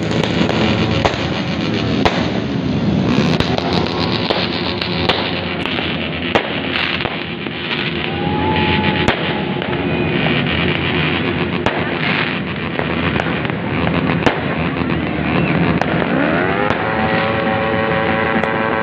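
Many motorcycles with open, unmuffled 'brong' exhausts revving together, engine pitches rising and falling over one another, with a rising rev near the end. Sharp cracks go off throughout.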